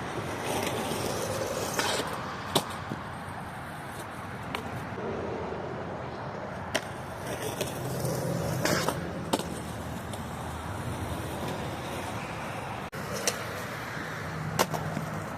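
Skateboard rolling on concrete, with a few sharp clacks of the board hitting the ground spread through it.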